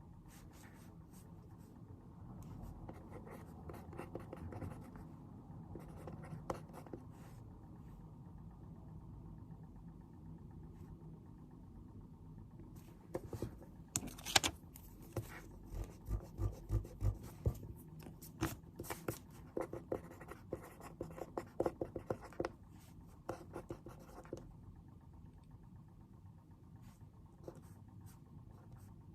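Pen writing on paper at a desk: a soft scratching. From about halfway through comes a run of short taps and clicks, one or two a second, with a few dull knocks on the desk.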